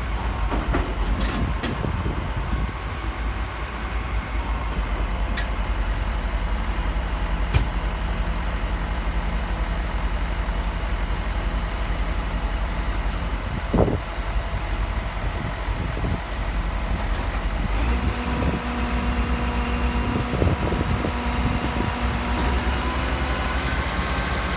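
Heavy vehicle engine running steadily, with a few sharp knocks and clanks. About eighteen seconds in, a steadier droning tone joins it.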